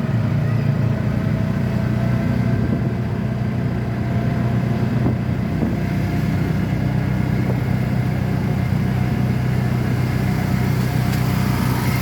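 A vehicle engine running steadily, a low even hum that does not change.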